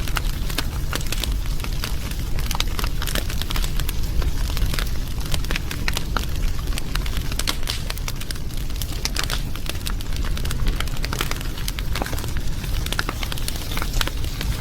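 A fire crackling, with many sharp pops and snaps over a steady low rumble.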